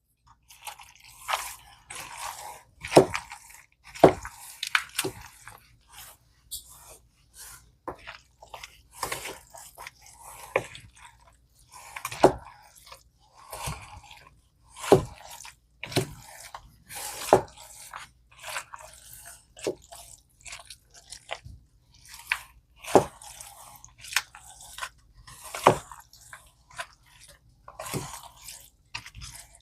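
A utensil stirring a thick, wet chicken salad with mayonnaise and cheese in a bowl: sticky squelching and crackling, broken by irregular sharp knocks of the utensil against the bowl every second or two.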